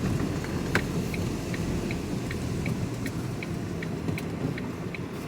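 Turn indicator ticking in an alternating tick-tock, a little over twice a second, over the steady rumble of the engine and road inside the cab. A single sharp click comes about three quarters of a second in.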